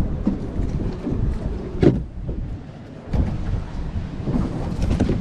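Wind buffeting the microphone aboard a small boat: uneven low rumbling gusts, with a sharp gust about two seconds in and a brief lull just after.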